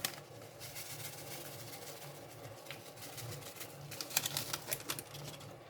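Faint rustling and light clicks from kitchen ingredients being handled, with a few sharper ticks about four seconds in.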